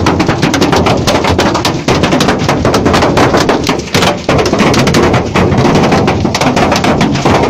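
Hailstones pelting a car's roof, windows and body, heard from inside the cabin: a loud, dense, unbroken clatter of hard impacts.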